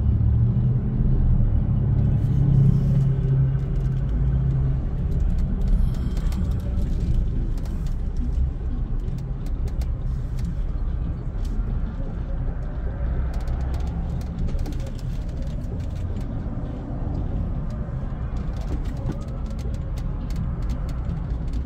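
Car engine running with a steady low rumble while the car waits and creeps forward in a queue, louder with a low hum in the first few seconds.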